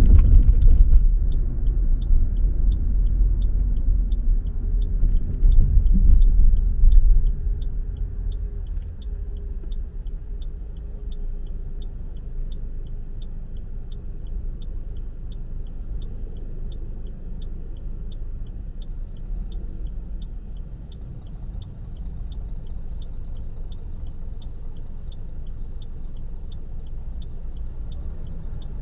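Low road and engine rumble of a car driving, louder for the first seven seconds and then lower and steadier. Over it runs an even high tick, nearly twice a second.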